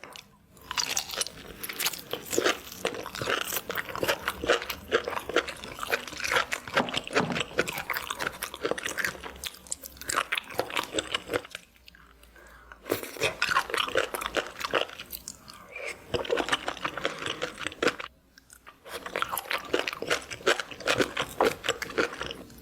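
A person biting and chewing seafood close to the microphone: dense, wet crunching in three long stretches, broken by short pauses about 12 and 18 seconds in.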